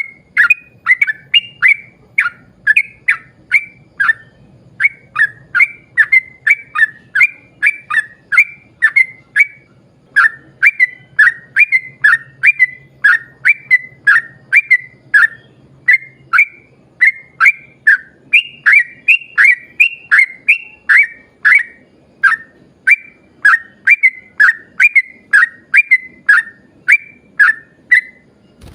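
Yellow-vented bulbul singing a long, rapid run of short chirping notes that sweep downward, several a second, with brief pauses, its full 'ropel panjang' song.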